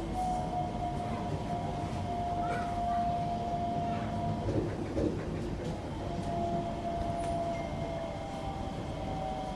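Singapore MRT train heard from inside the carriage: a steady rumble of wheels on track with a high motor whine that drops out about four seconds in and returns, falling slightly in pitch, as the train slows into a station.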